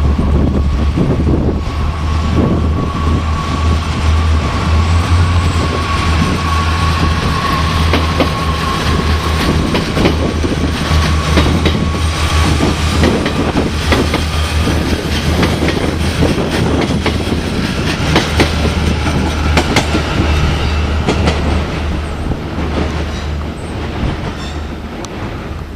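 A train passing close by, its wheels clattering over the rail joints over a steady rumble, with a high steady whine through the first half; the sound fades as it moves away near the end.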